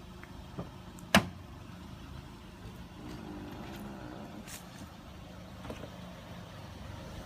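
Car engine idling steadily after a remote start from a phone app, with one loud sharp clack about a second in.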